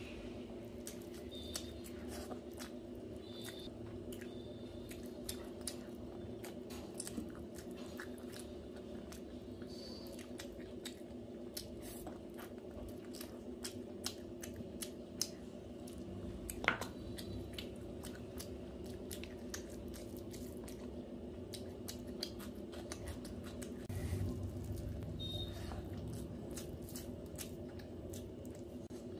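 Close-up chewing and lip-smacking of a person eating rice and chicken curry by hand, with many small wet mouth clicks and the soft squish of fingers mixing rice into gravy, over a steady low hum.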